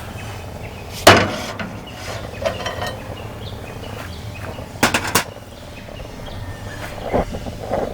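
Knocks and clatter of hard objects being handled and set down: one sharp loud knock about a second in, a quick run of several knocks near the middle, and two softer thumps near the end.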